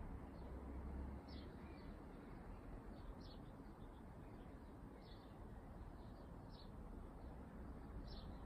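Faint bird chirps, short high calls every second or two, over a quiet low rumble of outdoor background.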